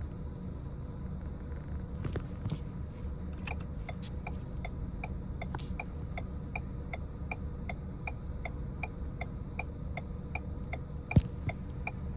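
Car turn-signal indicator ticking at an even pace of about two to three clicks a second, over the low rumble of a running car heard from inside the cabin. The ticking starts a few seconds in and stops near the end.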